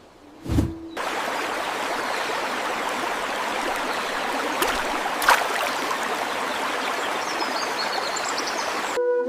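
Steady rush of water that sets in about a second in, after a short low thud, and runs on evenly with a couple of faint clicks in the middle.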